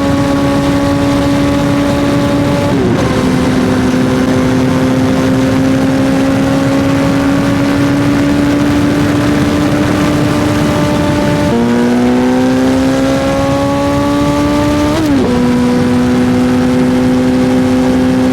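Suzuki GSX-R1000 inline-four engine pulling under steady throttle while riding, its pitch climbing and then dropping sharply at gear changes about 3, 11.5 and 15 seconds in, with the quickest rise between the last two. A steady rush of wind noise runs underneath.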